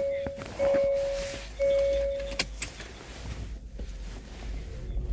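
A car's electronic warning chime, one steady tone sounding about once a second, about three dings, cutting off with a couple of clicks some two and a half seconds in. The car's low rumble runs underneath.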